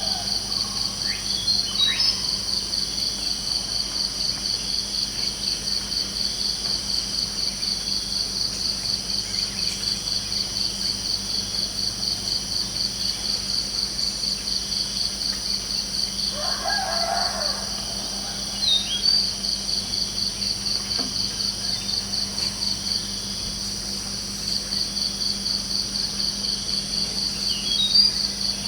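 Insects trilling in a steady, rapid pulse that stops briefly twice, with a few short bird chirps and one lower call partway through.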